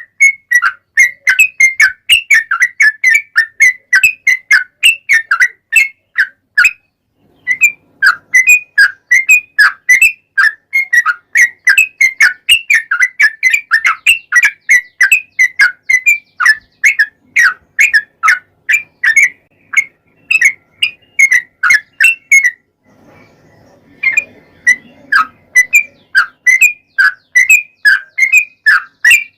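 Yellow-vented bulbul (trucukan) singing a long, fast run of loud whistled notes, about three or four a second, with two short breaks.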